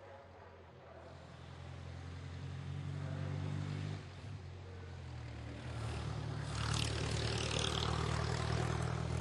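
Vintage racing car engine pulling hard and growing louder as the car approaches. The note breaks off briefly about four seconds in, like a gear change, then picks up again and runs louder still.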